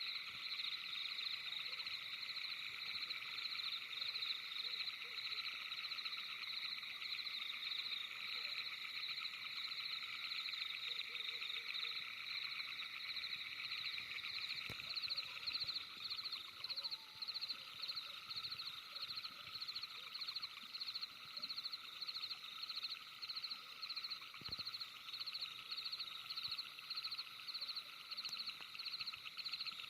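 Night-time frog chorus: steady high-pitched calling in several pitch bands, which settles about halfway in into an even pulse of about two calls a second.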